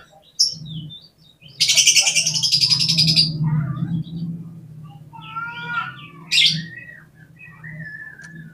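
Oriental magpie-robin singing: a loud, rapid, harsh chattering burst about two seconds in, followed by varied whistled notes and short calls. A steady low hum runs underneath.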